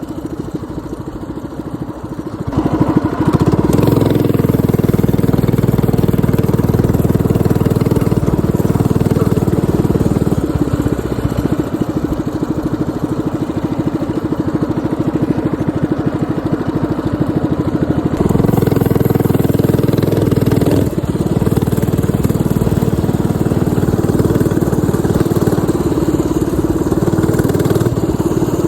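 Minibike's swapped-in 212cc single-cylinder four-stroke engine running under way. It is quieter for the first couple of seconds, is opened up sharply about two and a half seconds in, eases a little, then surges again about two-thirds of the way through.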